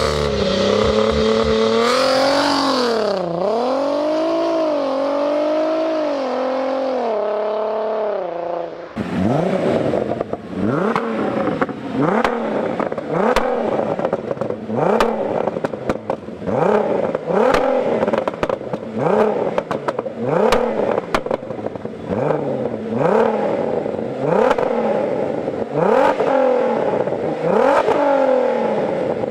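Volkswagen Golf Mk4 R32's 3.2-litre VR6 engine being revved through its exhaust. A held rev swells and falls for the first nine seconds or so, then comes a quick run of short blips, about one a second, with crackles and pops from the exhaust between them.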